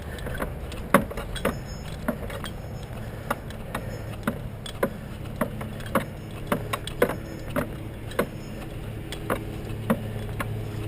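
Irregular sharp clicks and knocks, about one or two a second, from gear being handled, over a steady low hum of an engine running.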